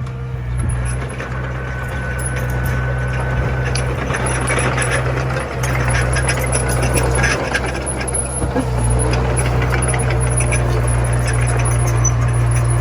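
Komatsu mini bulldozer's diesel engine running steadily, with rattling that grows busier midway.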